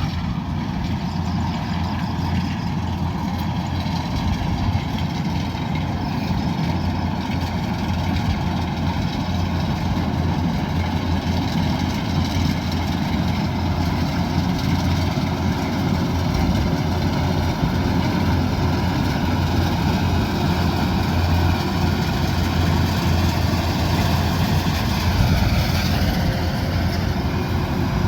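Kubota DC108X combine harvester's diesel engine running steadily.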